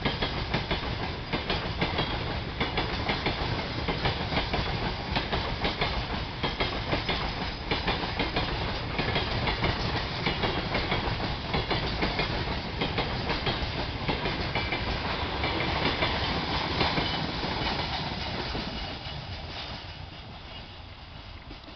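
Train rolling past, its wheels clattering over the rail joints at a steady rate. The sound fades over the last few seconds as the train moves away.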